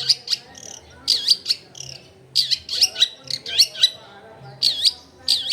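Long-tailed shrike (cendet) singing a busy, varied song in four bursts with short pauses between them, each burst a run of sharp chirps and quick down-and-up sweeping notes.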